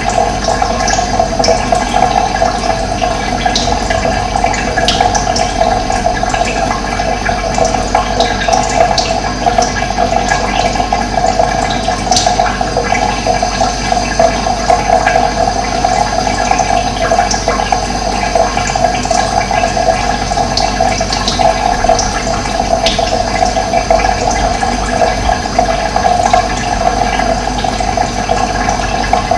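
Running water flowing steadily, a dense unbroken rush, with faint short bird chirps now and then.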